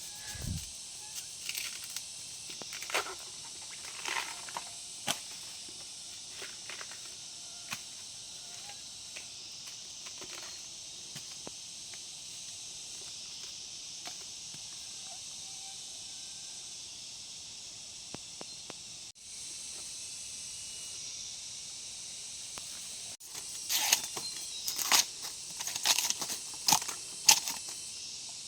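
Steady insect drone with scattered snaps and crackles of plant stems and leaves being handled, then a quick run of louder cracks near the end.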